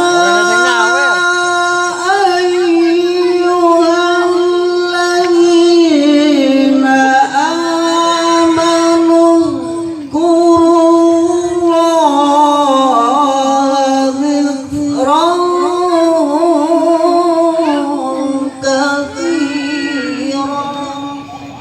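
A qori's solo voice reciting the Quran in melodic tilawah style: long held notes with vibrato and ornamental glides between pitches, taking a new phrase every few seconds.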